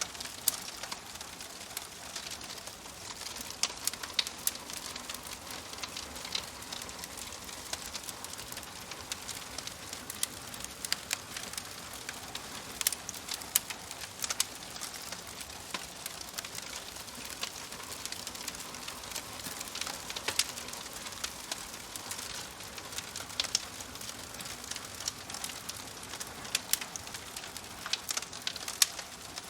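Fire crackling in a fireplace: a steady soft hiss with frequent sharp pops and snaps at irregular intervals.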